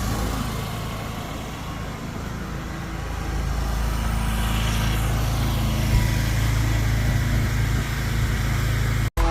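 A car engine running steadily with a low rumble, growing louder about three and a half seconds in.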